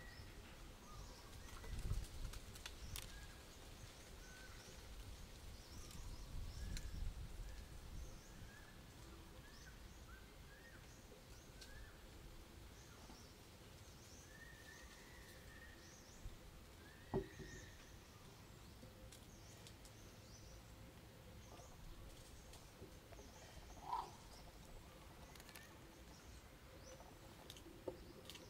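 Faint outdoor ambience of small birds chirping: many short calls, some sliding up or down in pitch, scattered throughout. A low rumble comes twice in the first eight seconds, and a single sharp click about midway.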